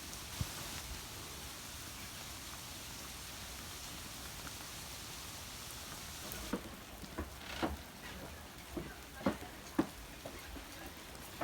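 Rain falling with a steady hiss; about two-thirds of the way through the hiss thins and single heavy drops strike close by, a dozen or so loud drips at uneven intervals.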